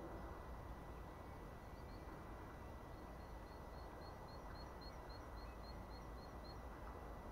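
Quiet outdoor ambience with a steady low rumble. About three seconds in, a small bird starts a rapid run of short, high notes, about four a second, lasting roughly three seconds.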